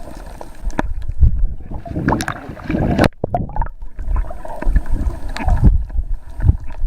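Water churning and bubbling around a camera microphone held in the sea: irregular low rumbling surges with scattered clicks, dropping out briefly about three seconds in.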